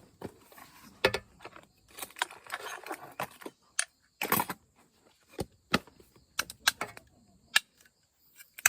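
Irregular clicks and knocks of small hard objects being handled, with a short burst of clatter about two seconds in.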